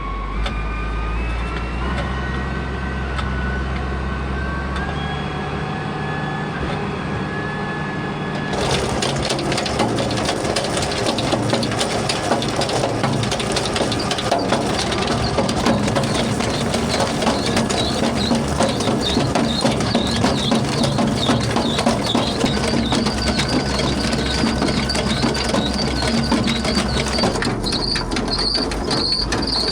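A farm vehicle's engine running with a whine that rises as it picks up speed. About nine seconds in, a loud, dense crunching and rattling suddenly takes over and carries on.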